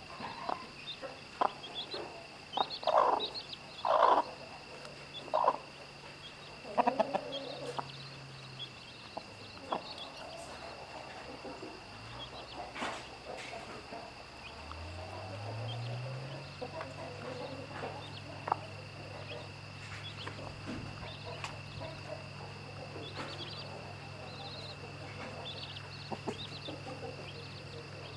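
Chickens clucking: a run of short, loud clucks in the first eight seconds, then softer scattered calls. Under them run a steady high-pitched drone and a low hum that rises in pitch about fifteen seconds in.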